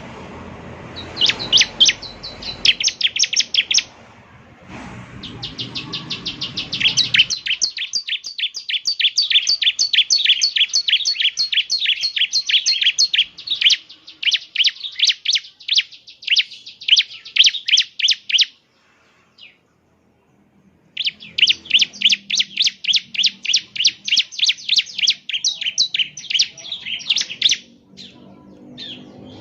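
Bar-winged prinia (ciblek) singing: long runs of rapid, sharp, high repeated chirps, broken by a pause of about two seconds a little past halfway. A low rumble of background noise lies under the song near the start and the end.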